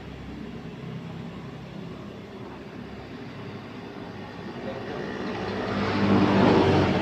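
A motor vehicle's engine running nearby, growing louder toward the end as it comes close.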